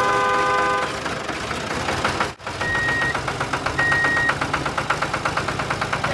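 Engine running with a fast, even chugging. A brief chord-like horn tone sounds at the start, and two short high beeps come midway.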